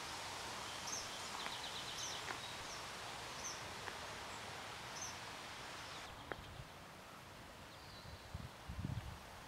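Faint wild bird calls: short high chirps repeated every second or so, with a brief rapid trill about a second and a half in, over a steady outdoor hiss. A few soft low thumps near the end.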